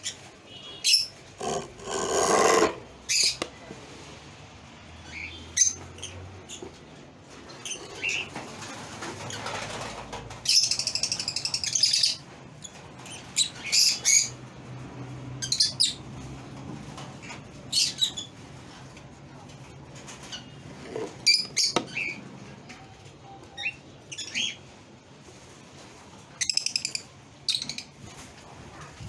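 Lovebirds calling in short, sharp, high chirps and squeaks at irregular intervals, with a longer burst of chattering about ten seconds in.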